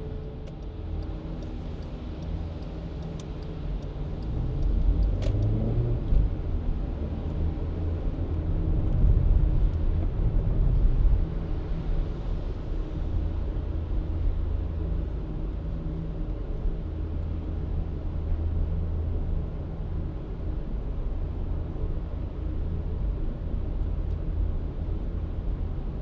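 Car engine and road noise while driving, a steady low hum. About five seconds in the engine pitch rises as the car accelerates, and the noise grows louder for a few seconds before settling back.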